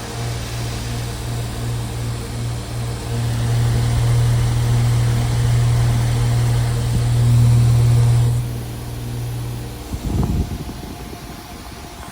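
Outdoor unit of a 2011 Ducane heat pump running in cooling mode: a steady low compressor hum under the rushing air of the condenser fan. The airy hiss drops about eight seconds in, and the hum stops about ten seconds in with a few knocks.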